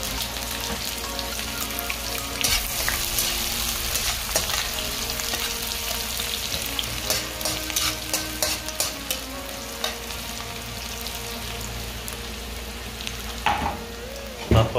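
Chopped onions, garlic and meat sizzling in overheated butter in a frying pan, with a metal spatula stirring and now and then clicking and scraping against the pan.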